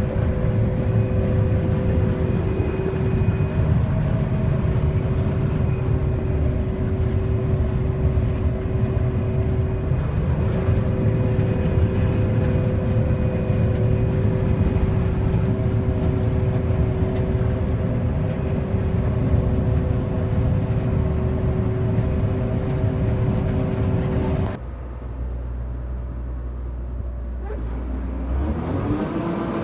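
Combine harvester running steadily under load, a dense machine noise with a steady whine over it. About 24 seconds in the sound drops suddenly to a quieter low hum, and a rising whine starts near the end.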